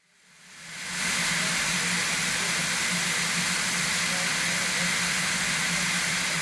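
Steady hiss of escaping steam from a narrow-gauge Garratt steam locomotive, with a low hum beneath it, fading in over the first second and then holding level.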